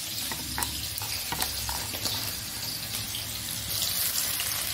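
Grated garlic and onion sizzling steadily in hot oil in a steel kadai, with a few light clicks in the first couple of seconds.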